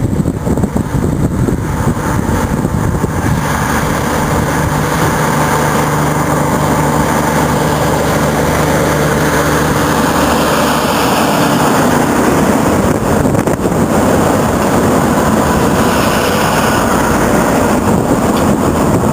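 A large truck's engine running steadily amid loud mechanical noise, with a steady engine note for the first half or so.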